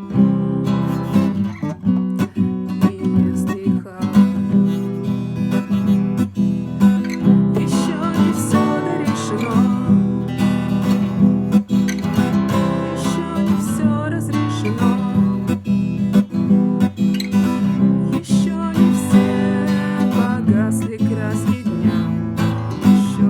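Acoustic guitar playing strummed chords, with a melody running over them.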